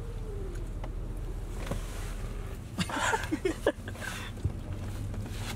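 Car engine idling, heard from inside the cabin as a steady low hum. A brief faint voice comes about three seconds in.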